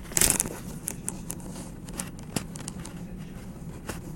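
Inside a moving tram: a steady low hum with scattered clicks and rattles, and a loud knock or rustle just after the start.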